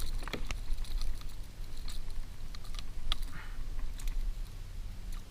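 Scattered light clicks and knocks over a low steady hum, the kind of handling noise made with gear and a fish in hand in a boat.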